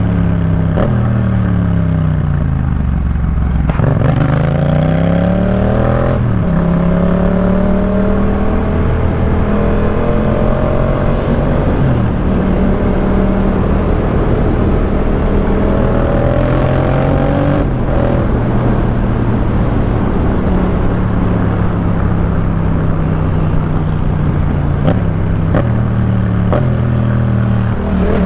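Yamaha MT-07 parallel-twin engine through a Jeskap K4 full exhaust, ridden on the road. The revs fall for the first few seconds, then climb again, with sudden gear-change breaks about six and twelve seconds in, then hold fairly steady at cruising speed.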